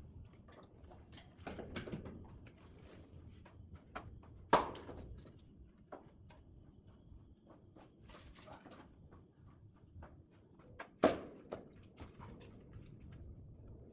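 Split oak firewood being handled and stacked: two loud wooden knocks, about six seconds apart, with lighter clacks and rustling of logs between them.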